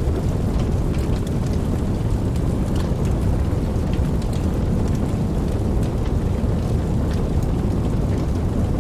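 Steady rain with scattered drops ticking over a continuous deep low rumble.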